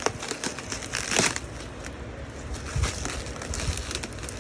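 Plastic packing material crinkling and rustling as it is handled, with scattered clicks and knocks and a louder crackle about a second in.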